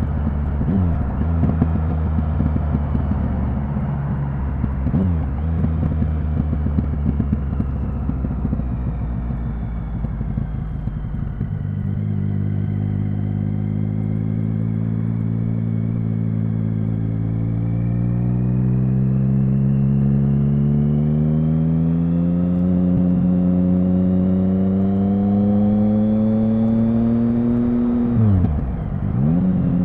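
Triumph Speed Triple 1050's inline three-cylinder engine running at low revs, then pulling up slowly and steadily in pitch for about ten seconds. Near the end the revs drop sharply and settle lower, as in an upshift.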